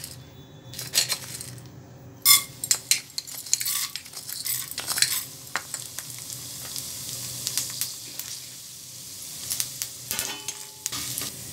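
Urad dal sizzling as it fries in hot oil in a kadai, a steady hiss through the middle. Sharp metal clinks and taps against the pan come in the first few seconds and again near the end.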